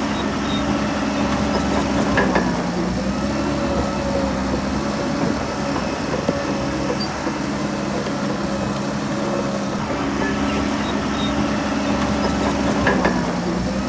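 Heavy diesel engine of earthmoving machinery running steadily, its pitch dipping briefly about two seconds in and again near the end, with a few knocks at those moments.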